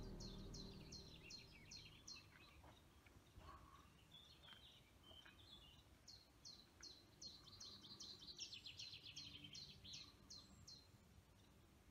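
Faint birdsong from a small songbird: series of quick, high, down-slurred notes, a short run at the start and a longer run past the middle, over a quiet outdoor hush.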